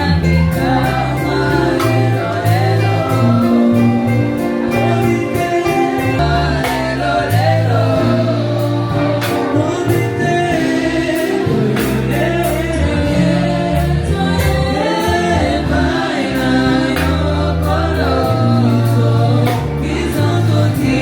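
Gospel music: a choir singing over a bass line and a steady beat.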